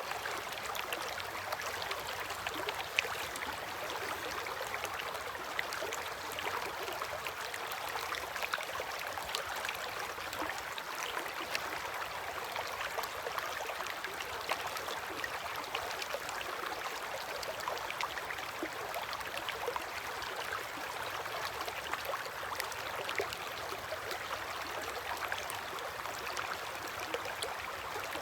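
River water flowing against its bank in a steady rush, with many small splashes and trickles.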